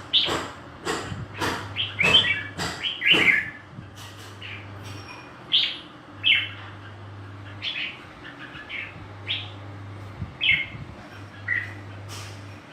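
Red-whiskered bulbul calling: a quick run of sharp chirps in the first few seconds, then short single notes about once a second.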